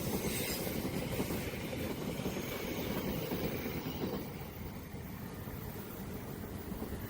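A passing train rumbling and rattling steadily, easing off a little about four seconds in.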